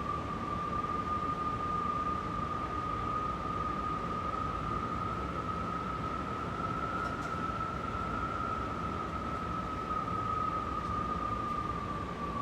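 Strong wind howling: a single ghostly whistle-like tone rises a little, then sinks slowly near the end, over a steady rushing noise.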